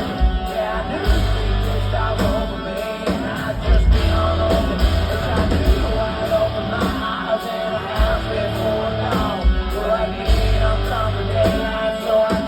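Loud live rock-country band playing, with a heavy pulsing bass beat and singing over it.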